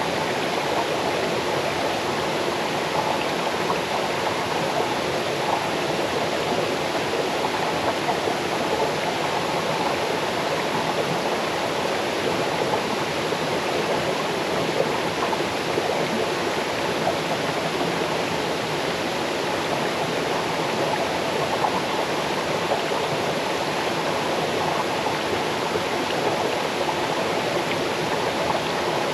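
Small waterfall cascading over stones into a stream: a steady rush of falling water with a babbling, splashing texture.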